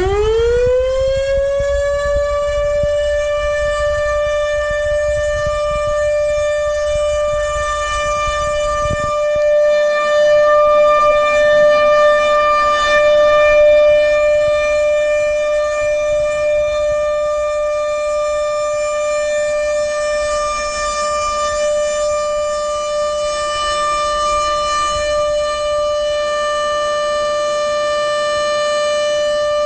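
Outdoor tornado warning siren winding up, its pitch rising quickly over the first second or two, then sounding a steady tone for the tornado drill, swelling a little louder about ten to fourteen seconds in.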